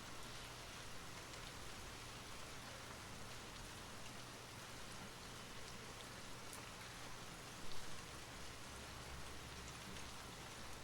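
Steady rain falling, an even hiss with scattered faint drop ticks. A brief low thump comes about two-thirds of the way through.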